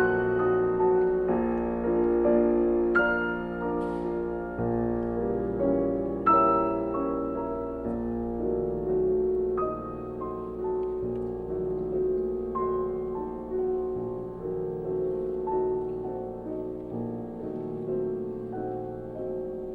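Slow, gentle piano music: single struck notes over sustained chords, the notes ringing and fading, growing gradually softer.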